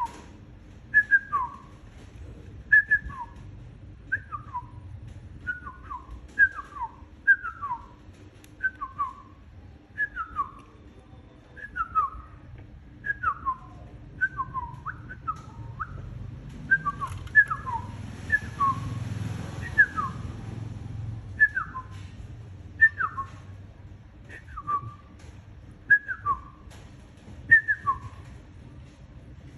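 A whistled two-note call, a higher note dropping to a lower one, repeated over and over at about one a second. A brief rustling noise rises under it about two-thirds of the way through.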